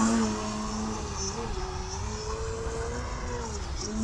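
Electric RC aerobatic airplane's DualSky brushless motor and propeller humming in flight at a mostly steady pitch, dipping briefly about a second in and sagging again near the end as the throttle is worked.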